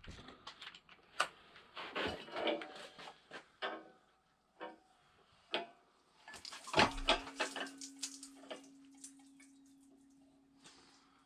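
Scattered clicks and clanks of metal tools and engine parts being handled, with a heavier knock about seven seconds in followed by a faint steady hum.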